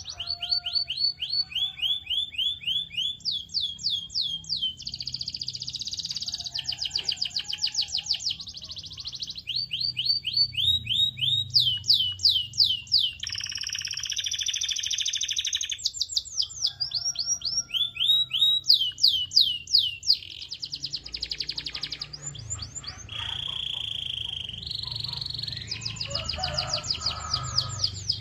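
Canary singing a long continuous song of rapid trills, each phrase a fast run of one repeated note, switching to a new phrase every second or two. A faint low hum runs underneath.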